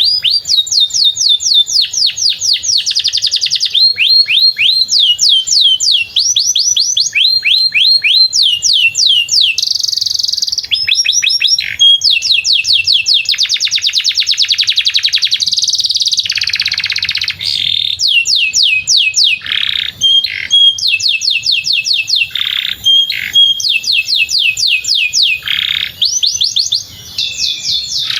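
Domestic canary singing a long, unbroken song: rapid runs of repeated, downward-sweeping whistled notes, each run switching to a new pattern every second or two.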